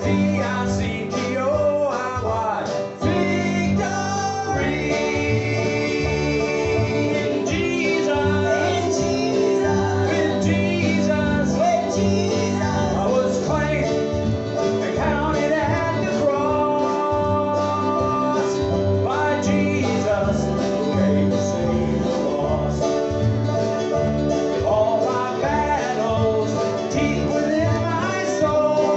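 Gospel group performing live: voices singing over acoustic guitar accompaniment in a country-gospel style.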